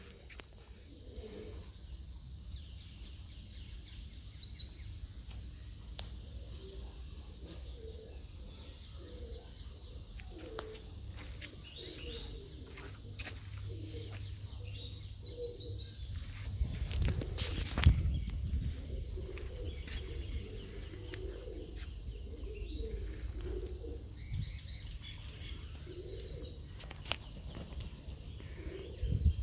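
Steady high-pitched insect drone, typical of crickets, with scattered short bird chirps, likely from lovebirds. There is one sharp knock about eighteen seconds in.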